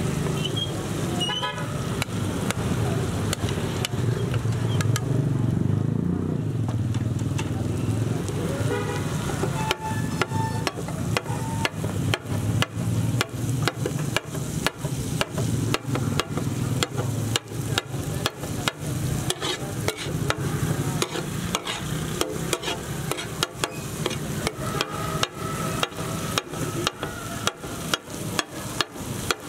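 Liver, onion and masala sizzling on a large iron tawa while a steel spatula stirs it; about a third of the way in the spatula starts striking the griddle in a steady clatter, two to three knocks a second.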